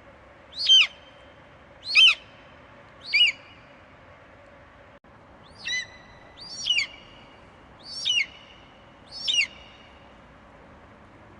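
Eagle giving short, sharp screeches that fall steeply in pitch, seven in all, about one a second with a pause of two seconds or so near the middle.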